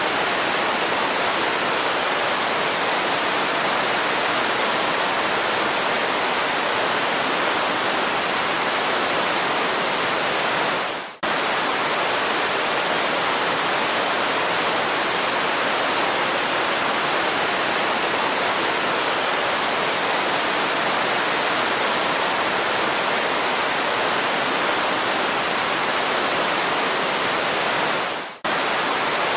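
Waterfall rushing in a steady, even roar of falling water. It drops out for an instant twice, about eleven seconds in and again near the end, then resumes at once.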